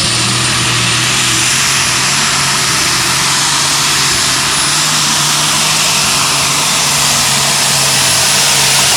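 Light super stock pulling tractor's turbocharged diesel engine running wide open under load, a loud steady engine note with a high turbocharger whistle above it.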